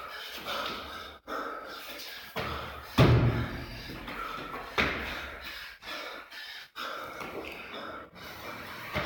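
Heavy gym equipment striking the floor: two loud thuds about two seconds apart in the middle, with lighter knocks between them over a steady background din.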